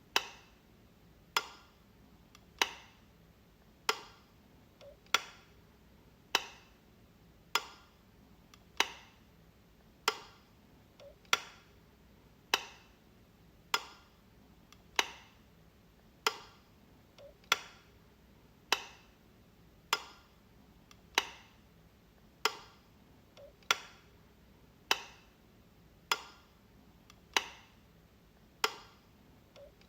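Light switch clicking, one sharp click roughly every 1.2 seconds, each with a brief ring after it.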